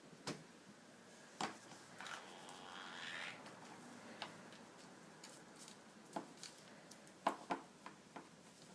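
Faint scattered clicks and taps from a green-cheeked conure's beak and feet working at a refrigerator, with a soft rustle about two seconds in.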